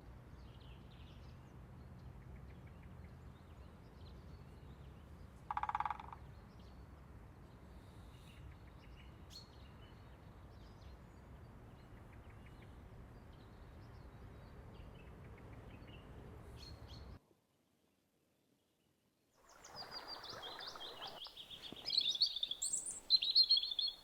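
Birds chirping over a steady low background rush, with one louder short call about six seconds in. The sound cuts out completely for about two seconds, then returns with louder, busier bird chirping near the end.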